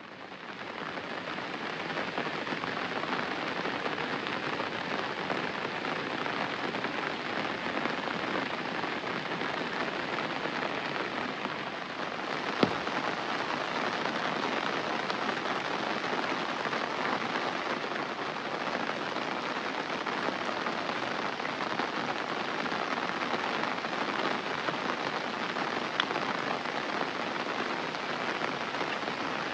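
Steady rain falling, fading in over the first second or two. A single sharp tap cuts through about halfway, and a fainter one comes near the end.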